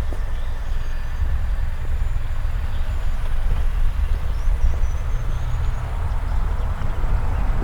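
Steady low rumble with a light hiss above it, and faint short bird chirps high over it.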